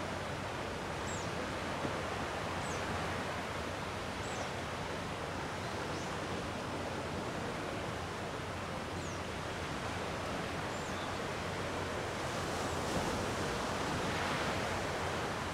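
Calm sea waves washing on a rocky shore, a steady wash of surf that swells louder for a few seconds near the end. Faint short high chirps come every second or two through the first part.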